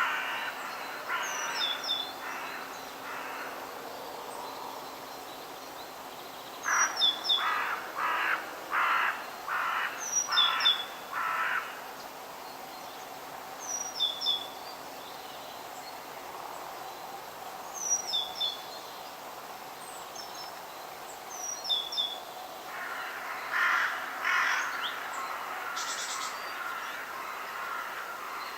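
Forest birds: one bird gives harsh calls in runs, a few at the start, about seven in a row a little before the middle, and a few more near the end. Another small bird repeats a short high chirping phrase every three to four seconds over a steady background hiss.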